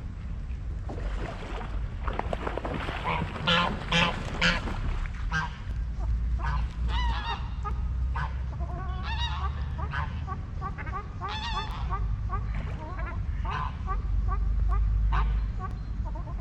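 Waterfowl honking and calling: a burst of loud honks about three to four seconds in, then a long run of short repeated calls, over a steady low rumble.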